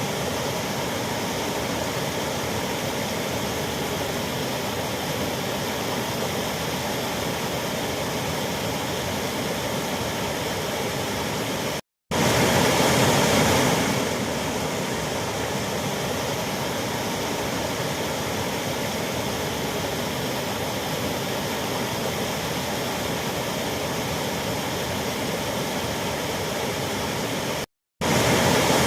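Waterfall: a steady rush of falling water. It cuts out for a split second twice, about 12 seconds in and near the end, and each time comes back slightly louder for a couple of seconds.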